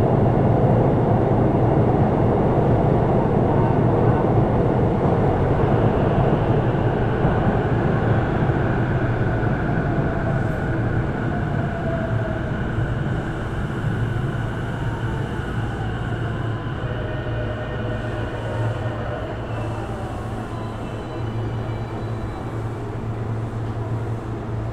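Sotetsu 12000 series electric train running, heard from inside the car: a steady rail rumble and rolling noise that gradually grows quieter, with faint whining tones from its Mitsubishi IGBT-VVVF inverter and traction motors, some of them gliding in pitch about halfway through.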